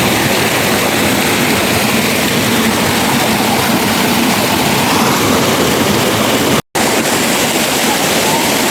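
Steady roar of rushing water, loud and even, cut off for an instant about two-thirds of the way through.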